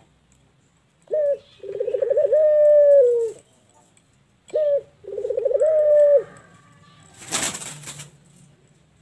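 Puter (Barbary dove) cooing twice: each phrase is a short clipped note followed by a longer, rolling coo. Near the end there is a brief rustling burst of noise.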